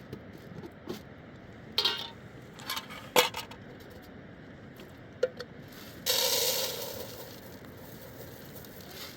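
Metal cooking pots and utensils clanking a few times, then a rushing hiss lasting about a second and a half that fades out.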